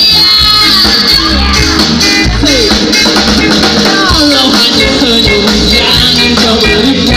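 A band playing a dangdut song: a melodic lead line that slides in pitch over bass and a steady beat.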